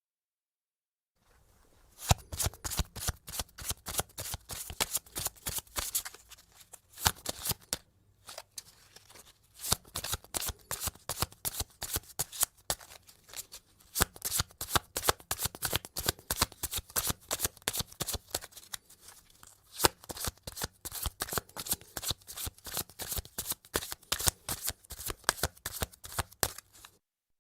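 A deck of playing cards being shuffled, dense runs of rapid card flicks and riffles. It starts about two seconds in, with a short pause around eight seconds in.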